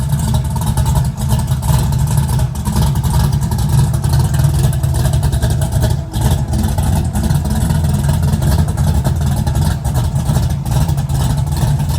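Loud car engine running steadily.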